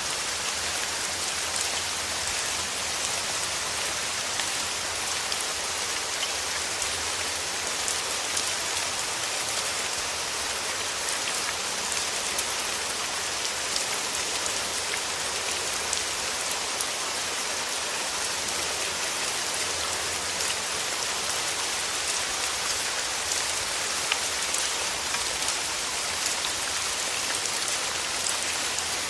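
Steady rain falling: an even hiss of rainfall with many small, separate drop ticks scattered through it.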